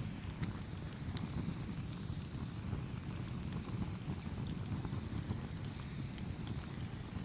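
Campfire burning: a steady low rumble of flames with sharp crackles and pops scattered irregularly throughout.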